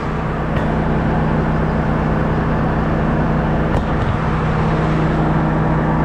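Combine harvester running steadily, a constant low machine hum with a few held tones, after a new bearing was fitted; it is running smoothly. A light tick about four seconds in.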